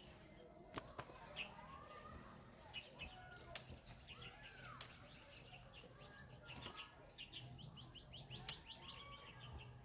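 Small birds chirping, with quick trills of rapid chirps near the end. A few sharp clicks cut through, the loudest about eight and a half seconds in, from hand clippers snipping mandarin stems.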